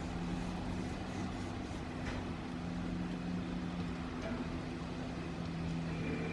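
An engine running steadily with a low, even hum, a vessel's diesel in a harbour scene.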